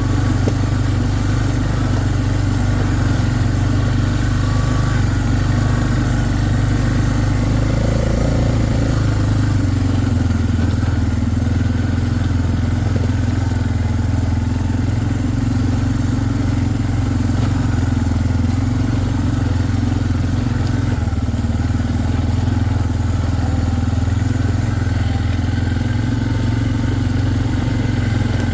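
A vehicle's engine running steadily as it drives along at an even pace.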